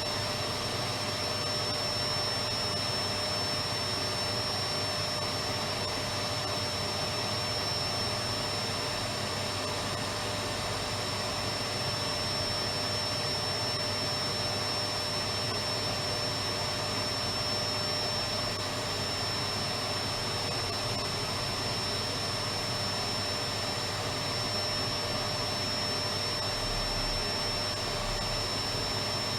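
Electric vacuum cleaner running steadily: an even rushing noise with a constant high-pitched whine.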